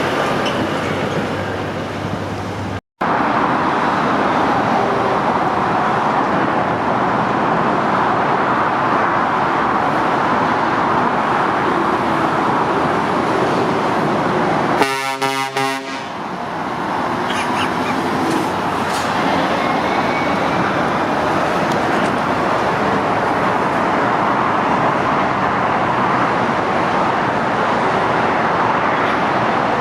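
Steady roar of heavy motorway traffic, with a truck's horn sounding one short toot, about a second long, about halfway through.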